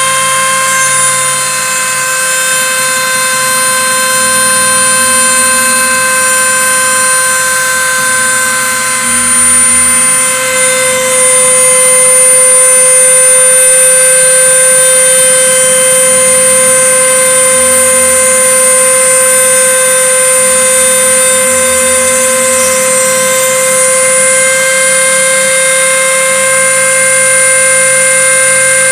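CNC router cutting 5 mm plywood on a second pass: the spindle runs with a steady high whine, under a lower motor hum that shifts pitch in short steps as the machine moves between cuts.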